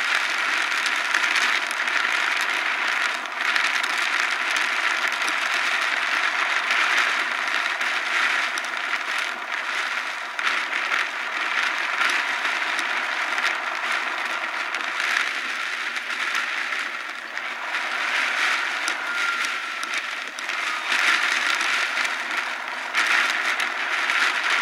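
Heavy rain pelting a moving car, heard from inside: a dense, steady hiss full of crackling drops.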